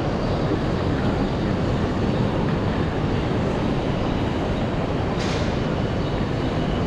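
Line P commuter train running on the rails: a steady rumble of wheels and running gear, with a short hiss about five seconds in.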